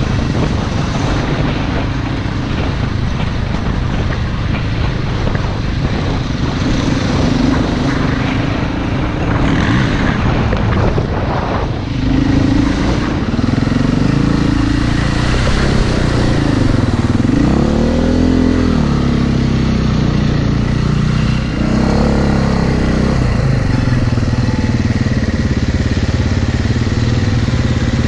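Enduro motorcycle engine heard from on the bike, running over rough ground with wind noise on the microphone. Its pitch rises and falls repeatedly in the second half as the throttle is opened and closed.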